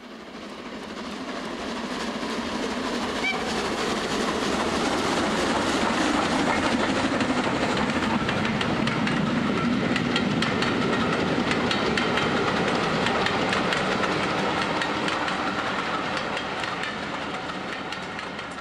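Train running on rails with a steady clickety-clack of wheels over rail joints. It fades in over the first few seconds and fades out near the end.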